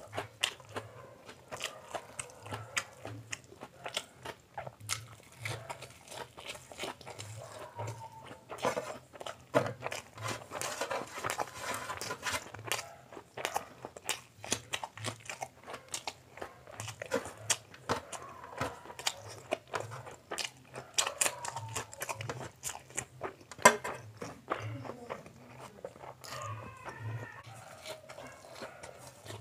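Close-miked chewing and biting of egg omelette: a steady run of wet mouth clicks and smacks.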